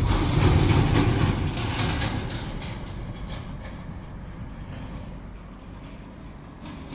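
Heavy trailer truck's diesel engine rumbling past, with some knocks and rattles. It is loudest in the first two seconds, then fades steadily as it moves away.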